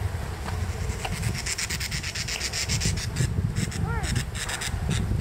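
Wind buffeting the microphone, with a bird's fast, dry, rattling call from about a second in until near the end, and a short arched whistled note about four seconds in.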